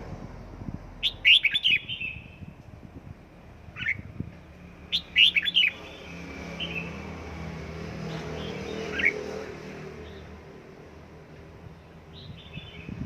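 Red-whiskered bulbul calling in short bursts of quick chirps, a few seconds apart, with a low steady hum in the background through the middle.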